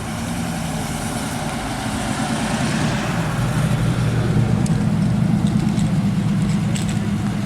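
Car engine running with a low, pulsing rumble that grows louder toward the middle and then eases slightly.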